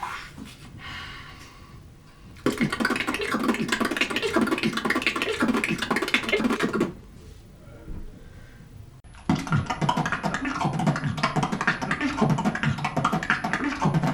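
Human beatboxing at top speed: a dense, rapid string of mouth-made kick pops, "t" hi-hat clicks and "k" snare clicks in a repeated PtkGtk pattern. It bursts in about two and a half seconds in and lasts roughly four and a half seconds, stops, then starts again about nine seconds in with a faint steady high tone over it.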